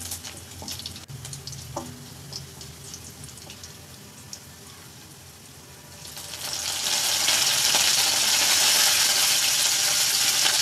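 Garlic, cumin and mustard seeds frying in oil in a kadai, stirred with a wooden spatula, with faint scattered crackles. About six seconds in, the sizzling swells quickly to a loud, steady hiss as curry leaves go into the hot oil.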